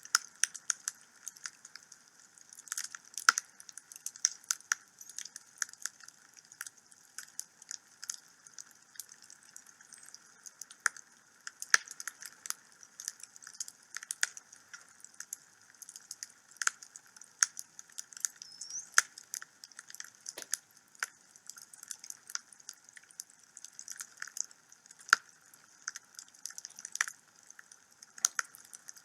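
Wood fire crackling in a fireplace: irregular snaps and pops, some much louder than others, over a soft steady hiss.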